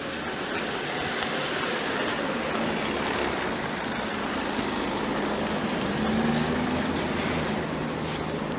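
Steady road traffic noise, with a vehicle engine passing and growing a little louder about six seconds in.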